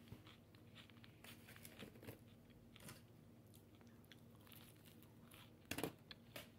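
A person biting and chewing food, faint, with scattered soft crunches and one louder crunch near the end.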